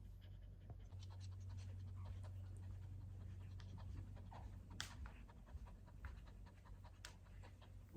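A Coton de Tulear dog panting softly after a walk, with two or three faint clicks.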